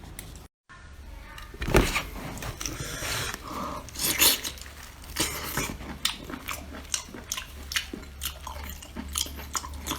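Seafood being eaten close to the microphone: shell crunching and cracking with wet chewing, a string of sharp crackles with louder crunches about 2 and 4 seconds in. The sound cuts out briefly about half a second in.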